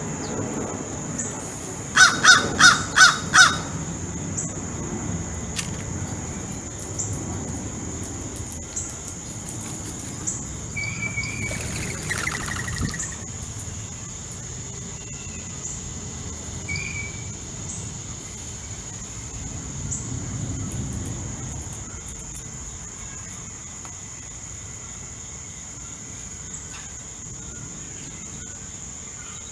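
A corvid calling: five harsh caws in quick succession about two seconds in, over a steady high-pitched insect buzz and a low background rumble. A few short bird chirps follow later.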